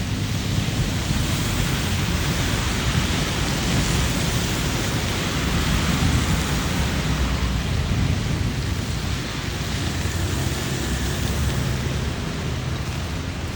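Heavy rain falling steadily, a dense even hiss with a continuous low rumble underneath.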